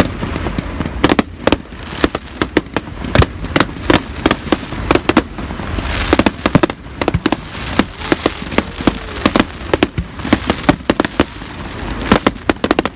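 Fireworks going off in a rapid, irregular volley of sharp bangs, with a burst of crackling about six seconds in.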